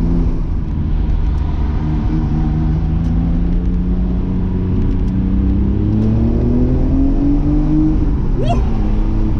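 Mitsubishi GTO's twin-turbo V6 heard from inside the cabin, pulling under acceleration. The engine note holds fairly steady, climbs in pitch over about three seconds, then drops at an upshift near the end.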